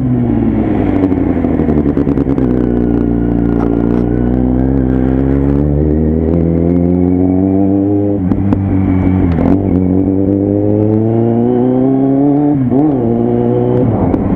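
Kawasaki Z800's inline-four running loud through its Jeskap exhaust while riding. The engine note drops over the first few seconds, then climbs steadily as the bike gathers speed, with a brief dip and blip near the end.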